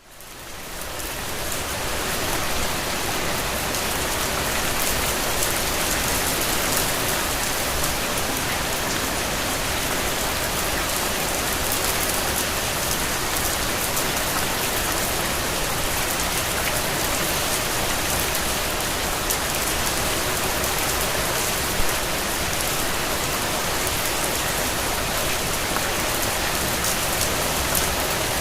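Steady rain falling, with fine ticks of individual drops striking a surface; it fades in over the first couple of seconds and then holds even.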